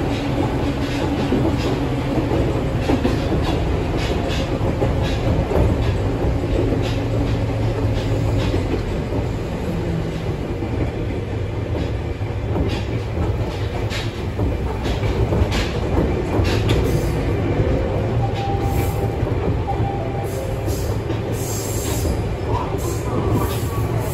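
Running noise heard inside an Ohmi Railway 800 series electric train car: a steady low rumble from the wheels and running gear, with scattered clicks from the rails. In the last few seconds high wheel squeal joins in.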